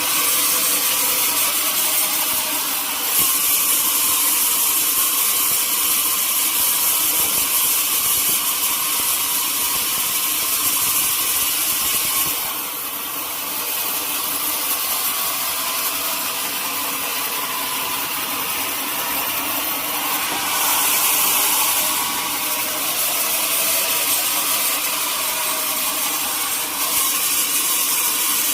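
Sawmill saw running steadily through a teak log, a continuous hissing cut that swells and eases as the cut goes on, dipping briefly about halfway through.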